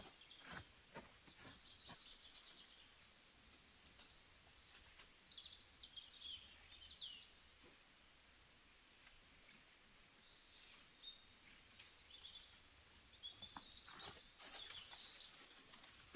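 Faint small-bird chirps and short calls, in two spells, with scattered light clicks and crackles throughout.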